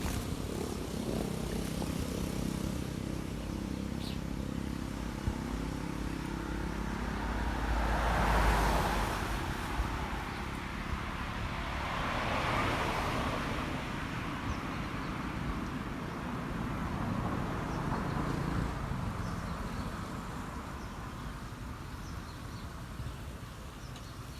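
Road vehicles passing by. An engine hum fades away over the first few seconds, then two louder pass-bys rise and fall about a third and halfway through, with a weaker one later.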